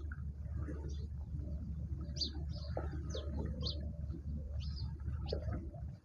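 Small birds chirping at a feeder: a series of short, high chirps, roughly one or two a second, over a steady low rumble.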